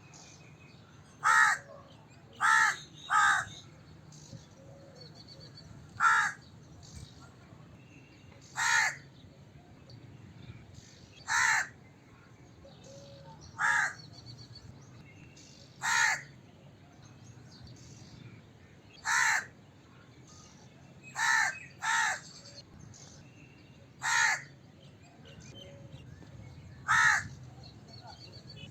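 Crow cawing: about thirteen short, harsh caws, one every two to three seconds, some in quick pairs.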